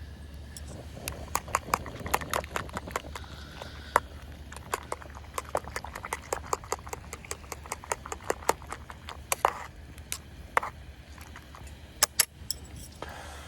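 Irregular clicks, taps and clinks, several a second, as of hard objects being handled, with two brief ringing metallic clinks about nine and a half and ten and a half seconds in, over a steady low hum.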